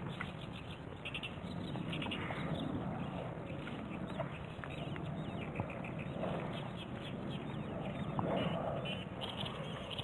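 Birds calling repeatedly in short chattering phrases, over a steady low background noise.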